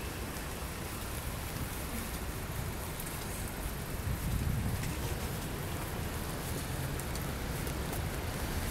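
Steady rain falling on a city street: a constant hiss of rain on wet surfaces with faint, fine drop ticks. A low rumble swells briefly about four seconds in.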